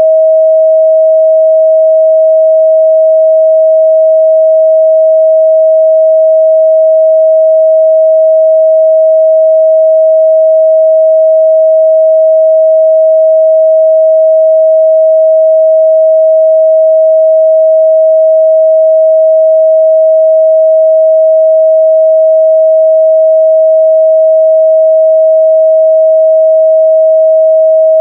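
A pure 637 Hz sine-wave test tone, loud and perfectly steady at one pitch, used to check the midrange response of speakers and headphones.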